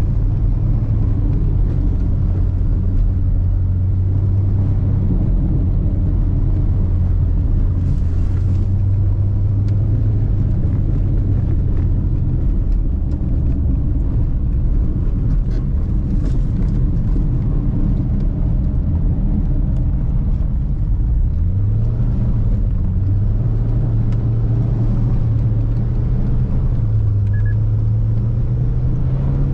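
Subaru Forester SJG's turbocharged flat-four engine running hard on an ice rally stage, its pitch holding steady. About three-quarters of the way through the pitch dips briefly, then climbs gradually to the end.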